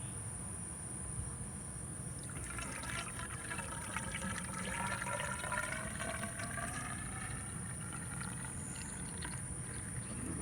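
Rain-X bug remover being poured from its jug through a funnel into a windshield washer fluid reservoir, gurgling and glugging, the pitch of the pour shifting as it runs. The pour is loudest from a couple of seconds in until about two-thirds of the way through.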